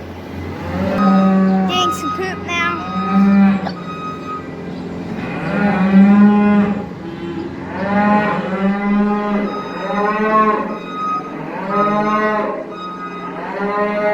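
Cattle mooing, one loud drawn-out call after another, about every two seconds.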